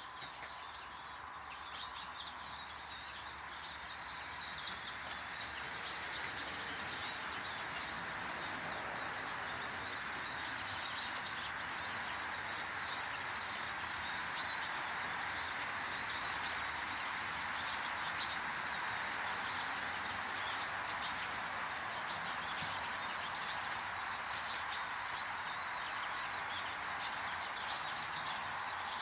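Small wild birds chirping and twittering at a garden bird table, many short calls throughout, over a steady background hiss that swells in the middle.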